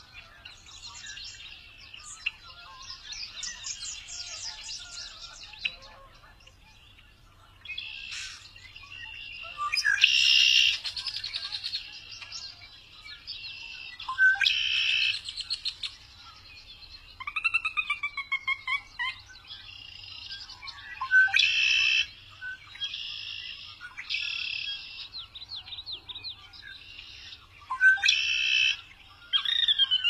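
Songbirds singing: varied phrases of quick chirps and trills, with loud bursts of rapid notes every few seconds and a few downward-sliding whistles.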